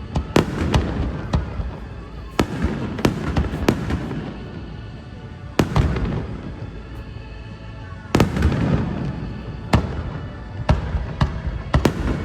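Fireworks display: shells bursting in sharp bangs at irregular intervals, some in quick clusters, with crackling between them and music playing underneath.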